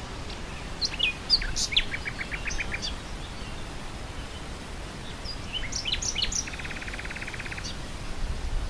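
A nightingale singing two phrases of sharp whistles and chirps, the second ending in a fast rattling run of repeated notes. Underneath is a steady hiss of wind through grass.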